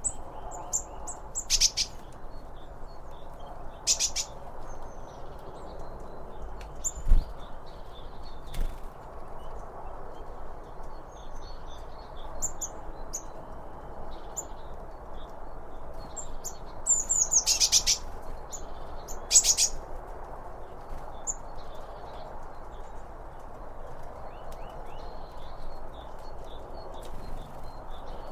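Small songbirds chirping in short, scattered calls and quick trills, over a steady background rush. A single low thump comes about seven seconds in.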